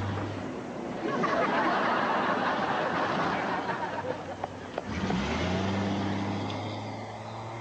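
Jaguar car engine running, then revving hard as the car pulls away, with a loud rush of engine and tyre noise in the middle that settles to a steady low running note.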